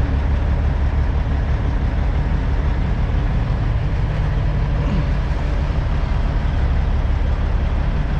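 Semi truck's diesel engine running steadily, its sound strongest in the low range, as the truck sits at or creeps toward the loading dock.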